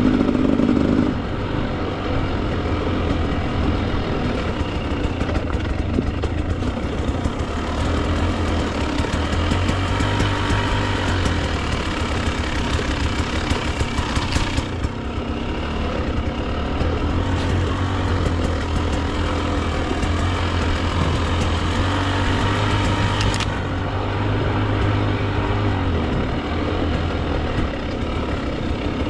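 Two-stroke Husqvarna TE 300 dirt bike engine running at low, fairly steady revs, its note stepping slightly up and down, with a couple of brief knocks.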